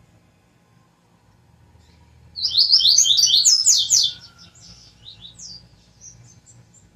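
A small songbird singing one loud, fast phrase of quick sliding notes lasting under two seconds, about two seconds in, then a few softer notes trailing off.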